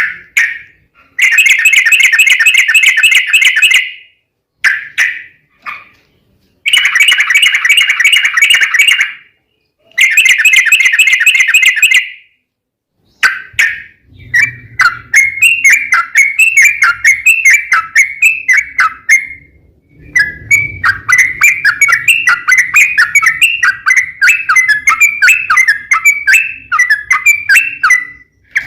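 Yellow-vented bulbul (trucukan) singing: several loud, rapid trilled phrases of two to three seconds each with short pauses, then from about halfway a long run of quick chirping notes.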